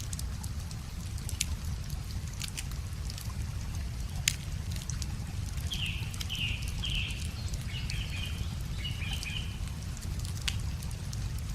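Wood fire crackling with scattered sharp pops over a steady low rush of river water. Midway through, a songbird sings a short phrase of several quick repeated notes.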